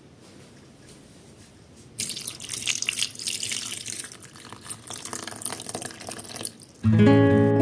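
Tap water running into a sink and splashing, starting suddenly about two seconds in and stopping shortly before the end. Acoustic guitar music then comes in.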